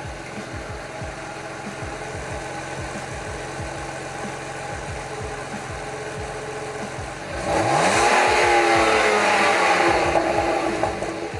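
BMW Z4 2.5i straight-six idling steadily through its stock exhaust with the muffler still fitted, then revved once about seven seconds in: the pitch climbs and falls back over about three seconds before it settles to idle again.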